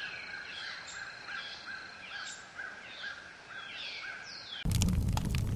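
A bird calling over and over at about two calls a second, each call a short note with a falling whistle above it. About four and a half seconds in, the sound cuts abruptly to loud crackling and popping of a wood fire.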